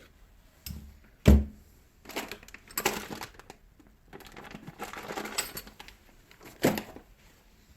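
Metal tools and small parts clattering and knocking on a workbench while the drill is being taken apart, with a few sharp knocks (the loudest about a second in) and a stretch of rummaging and scraping in the middle.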